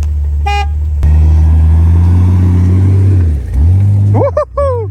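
A 4x4's engine running steadily under load while driving in deep snow. It gets louder about a second in, and its revs drop and climb again twice near the end. A short beep sounds about half a second in.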